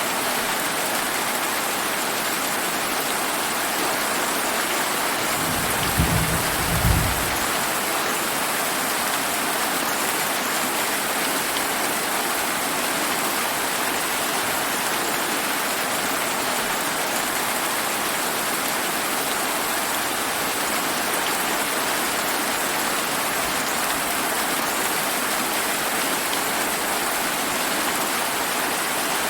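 Steady rain falling and pattering on surfaces. About six seconds in, a short low rumble of thunder with two quick peaks.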